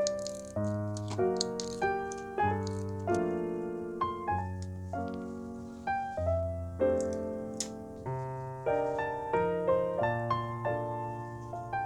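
Background piano music: a gentle melody of single notes over soft chords, each note struck and left to fade.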